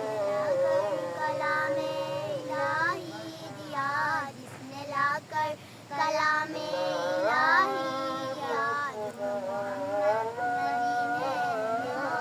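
Young girls' voices singing a Naat, a devotional Urdu chant in praise of the Prophet, with long held notes that bend and waver in pitch.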